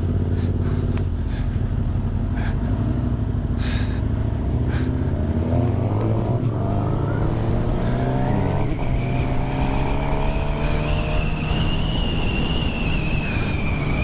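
Suzuki GSX-R 750 inline-four sport bike engine with an Akrapovic slip-on exhaust, running steadily at first, then revving up under acceleration from about six seconds in. It breaks briefly near nine seconds for a gear change and then holds at a higher pitch with a high whine.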